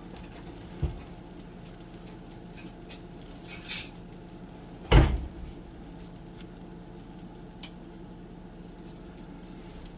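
Kitchen utensils clinking and knocking while a spatula is fetched, with one loud knock about halfway through, over a steady low background hum.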